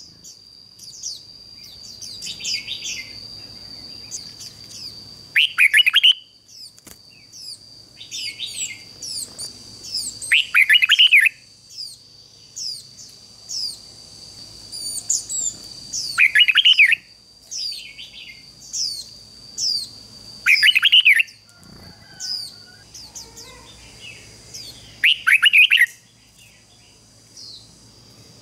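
Red-whiskered bulbuls singing: loud, quick whistled phrases repeating every few seconds, with softer, higher chirps between them, over a steady high-pitched tone.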